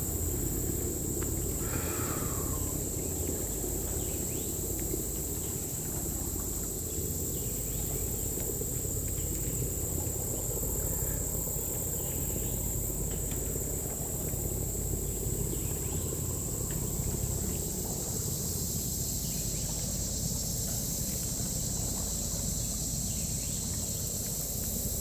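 Steady high-pitched insect drone over a constant low rumble.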